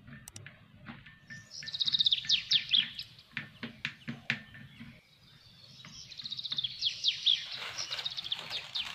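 A songbird singing two fast trilled phrases of rapid, high, downward-sweeping notes, the first about a second and a half in and the second from about six seconds to the end. Between them come light clicks, like a wooden stick tapping a small glass bowl.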